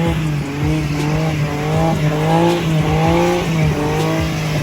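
BMW M4 engine revving in short rising-and-falling surges, about two a second, as its rear tyres spin on ice.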